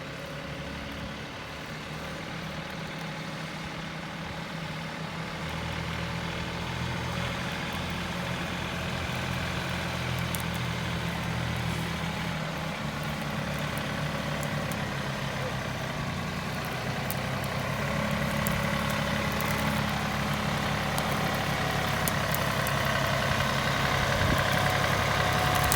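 John Deere tractor engine running, its pitch shifting a few times as it is worked, growing gradually louder.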